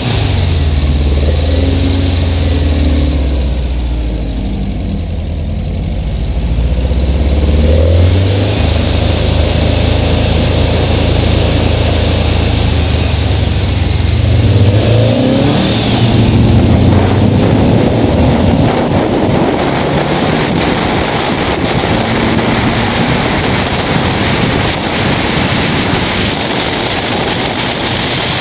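Race car engine heard from an onboard camera: running at a low, steady note with a few brief revs while it waits, then revving up in rising sweeps as the car pulls away, and running at speed with road and wind noise in the second half.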